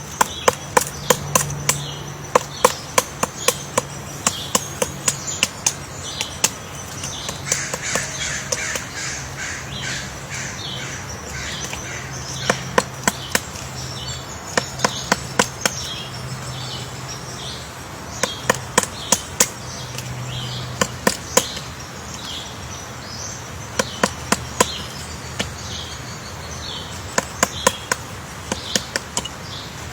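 A woodpecker pecking and chiselling into wood to dig out its nest hole: sharp taps in irregular bursts of several strokes, with pauses between. Other birds keep up short, repeated calls behind it.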